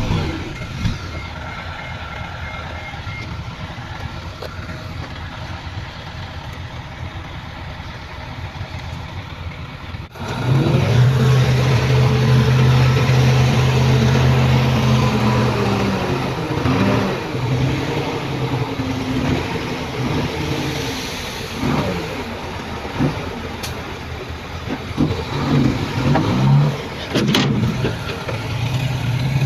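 Heavy diesel earthmoving machinery running: a steady engine drone that cuts abruptly at about ten seconds to a louder engine, which then rises and falls in pitch as it works. A few sharp knocks come near the end.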